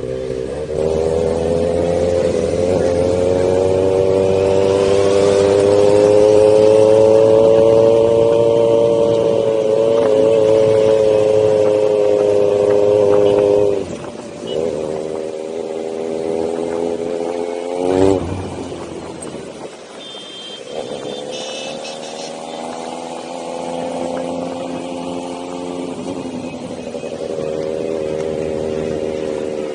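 Motorcycle engine running under way. Its pitch climbs and holds through a long pull, then drops sharply about 14 seconds in and again around 18 and 20 seconds, as if the throttle is rolled off or gears are changed, and picks up each time after.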